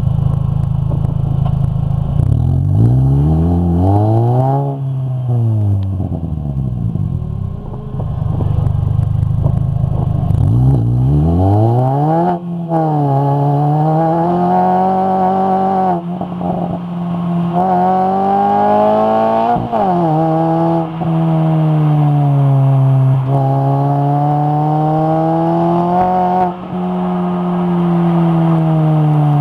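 Racing Mini's engine revving while stationary on the grid, then launching from a standstill and accelerating hard through the gears, with the pitch rising on each gear and dropping sharply at every upshift. Near the end the revs fall away as the driver lifts off.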